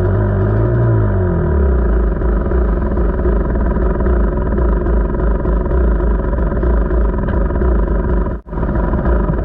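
KTM 300 two-stroke dirt bike engine running under way, its pitch rising and falling for the first second and a half, under heavy low wind rumble on the microphone. The sound drops out for an instant near the end.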